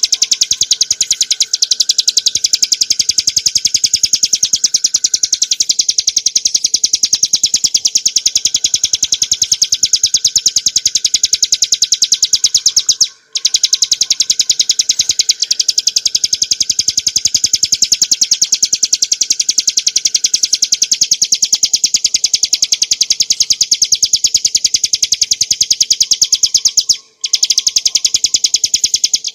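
Bar-winged prinia (ciblek gunung) singing a rapid, high-pitched run of chattering notes, many a second. The song is nearly unbroken, stopping only twice for a moment; keepers call this continuous delivery 'ngebren'.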